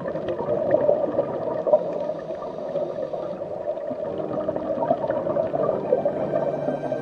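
Underwater ambience: a steady bubbling, gurgling wash of water with many small scattered clicks.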